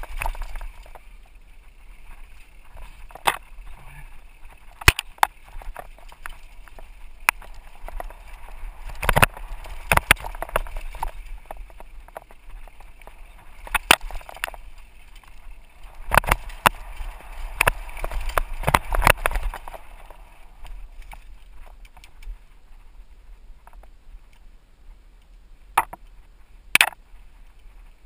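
Mountain bike running down a dirt trail: tyres rolling over dirt and rocks, with frequent sharp rattles and knocks from the bike over bumps and rushes of wind on a helmet-mounted camera.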